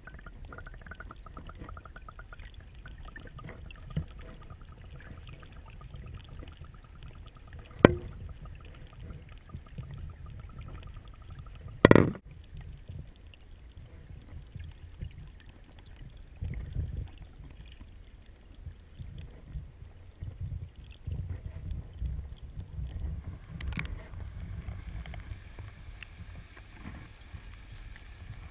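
Muffled, low rushing of river water picked up by a GoPro camera, with a few sharp knocks, the loudest about 8 and 12 seconds in.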